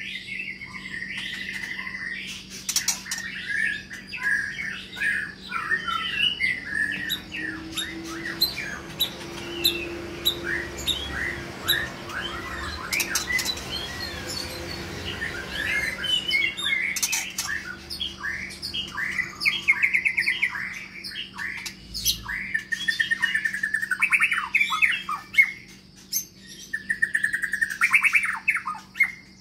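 White-rumped shama (Medan long-tailed murai batu) singing a varied run of quick chirps, trills and whistles with short pauses, over a steady low hum.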